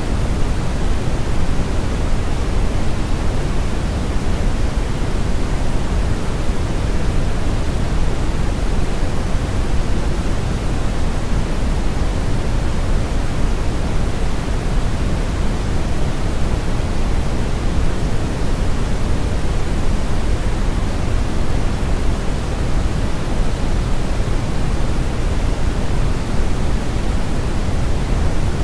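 Brown noise: a steady, even hiss-rumble, weighted heavily toward the bass with the highs rolled off, with no tones or changes.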